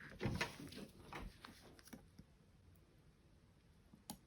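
Small tools being handled and set down on a desk: a few light knocks and rustles over the first couple of seconds, then quiet, with one sharp click near the end.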